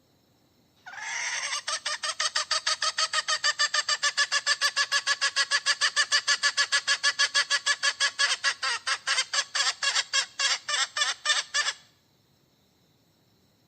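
Hen giving a long, rapid run of pulsed calls, about seven a second, starting about a second in and stopping abruptly after some eleven seconds. The uploader takes this hen calling for a call for a mate.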